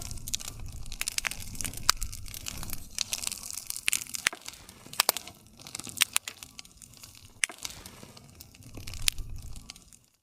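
Wood campfire burning, with irregular sharp crackles and pops from the burning wood over a soft low rustle of flame. The sound cuts out suddenly near the end.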